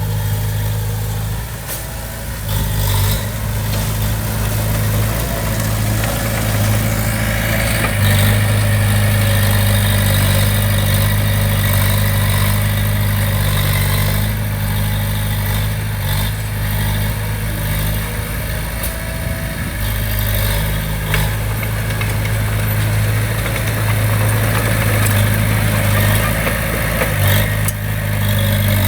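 Diesel engine of heavy earthmoving equipment running steadily, with a few scattered clanks. It gets a little louder about eight seconds in.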